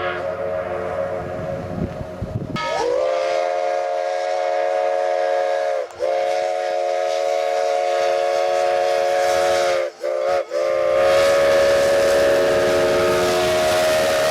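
Steam locomotive chime whistles sounding a chord of several tones. First one whistle is held over the rumble of the running train. Then another slides up in pitch as it opens and blows long, long, short, long, the grade-crossing signal.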